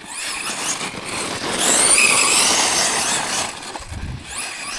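Tekno MT410 2.0 1/10 RC monster truck driving over rough ground: the brushless electric motor's high whine rises and falls with the throttle, loudest in the middle, over a noisy rush of tyres on the ground.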